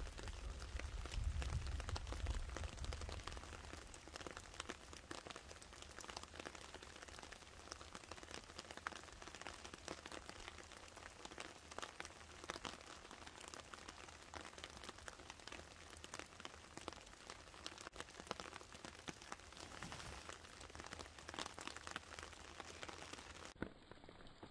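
Light rain falling on leaf litter: a faint, even patter of many small drop ticks. There is a low rumble in the first few seconds.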